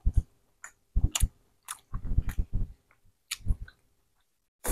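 Close-miked chewing and biting of sauce-coated food, with wet mouth sounds and lip smacks coming in short bursts about once a second.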